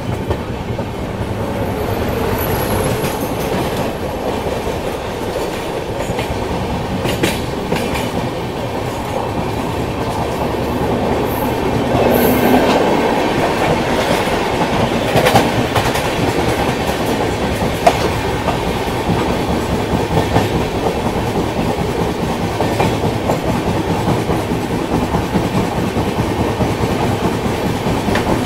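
Himgiri Express passenger train running on the line, a steady rumble with the wheels clattering over the rail joints.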